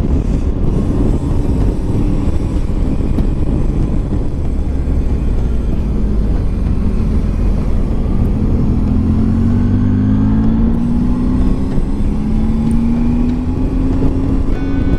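Motorcycle engine running under heavy wind and road noise while riding. In the second half its pitch climbs steadily as the bike accelerates.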